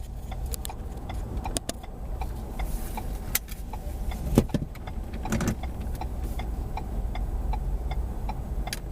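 Low, steady road and engine rumble inside a moving car, with faint ticks at an even pace and a couple of sharper knocks about halfway through.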